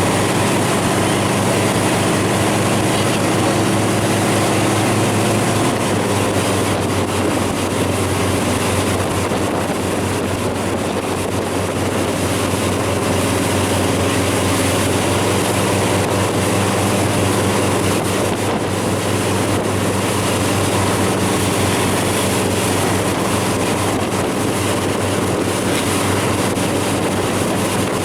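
Watercraft engine running steadily at speed, with water rushing and wind buffeting the microphone.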